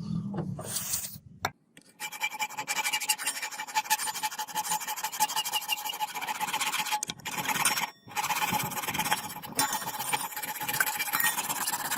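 A tool working metal: a fast rasping scrape over a steady whine. It starts about two seconds in and breaks off briefly twice in the middle.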